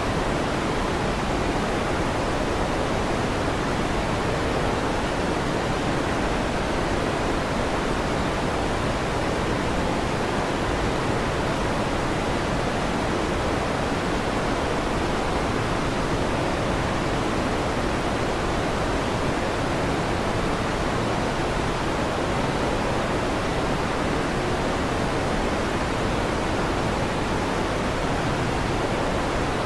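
Electric fan running with a steady, even whooshing noise that never rises or falls.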